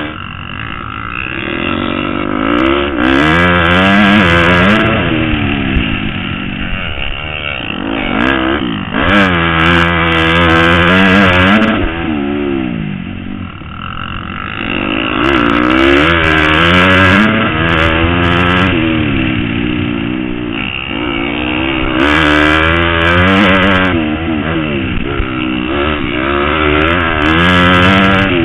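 Motocross bike engine revving hard and easing off over and over, its pitch climbing in repeated sweeps and dropping back as the throttle is worked.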